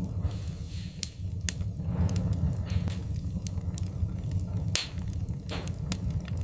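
Wood fire crackling in a fireplace: scattered sharp pops and snaps over a steady low rumble of the burning fire, with a louder pop a little before five seconds in.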